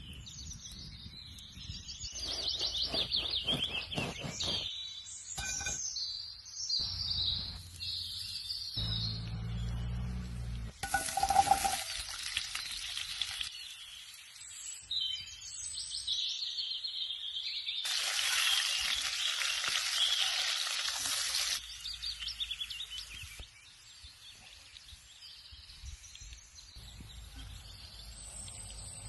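Birds singing and calling outdoors. Two stretches of steady rushing noise, each a few seconds long, start and stop abruptly.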